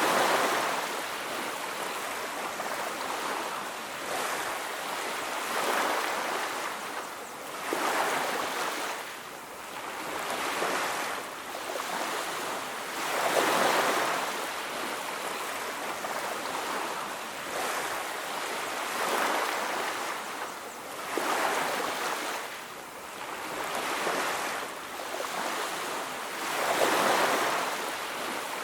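Ocean surf washing onto a beach, the waves swelling and fading every few seconds.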